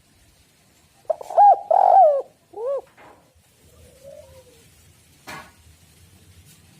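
Spotted dove (tekukur) cooing: one phrase of three loud coos about a second in, with a faint low note after it. A short sharp click comes later.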